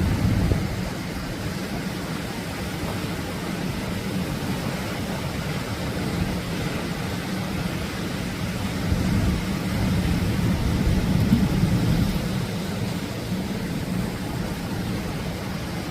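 Steady rush of Atlantic surf breaking on the shore, with a deep rumble underneath, swelling a little about two-thirds of the way through.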